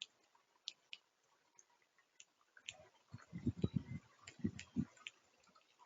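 Birds feeding on a platform feeder: scattered sharp ticks of bills pecking at seed, with a run of louder low knocks and thumps about three to five seconds in as birds hop and shuffle on the tray.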